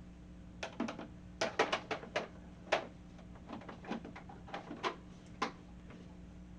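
Hard plastic beehive frames and parts clacking and knocking as the hive is put back together: a quick run of sharp clicks, thickest in the first couple of seconds, then thinning out.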